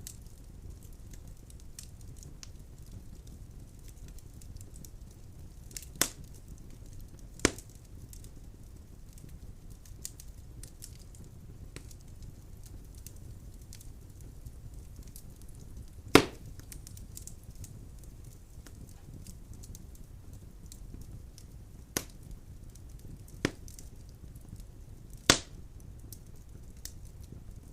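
Wood fire in a fireplace crackling: a steady low rumble of flames under a scatter of small ticks, with half a dozen sharp pops from the burning logs, the loudest about halfway through.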